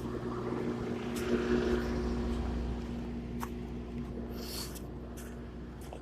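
An engine running steadily at a constant speed: an even low hum, with a few faint clicks over it.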